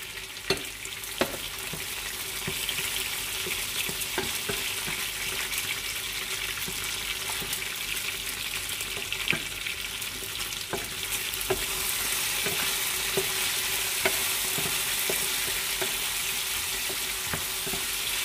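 Chicken pieces frying in hot oil with dried chillies and curry leaves in a nonstick pan: a steady sizzle that grows louder about two-thirds of the way through, with a wooden spatula stirring and knocking against the pan now and then.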